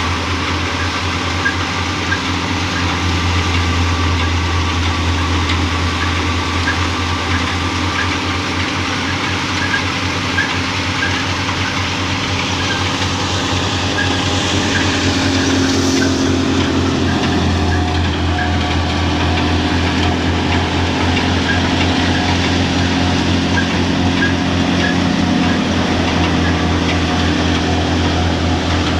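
A tractor-driven threshing machine running steadily: a continuous low engine drone with a steady mechanical whir, unchanging throughout.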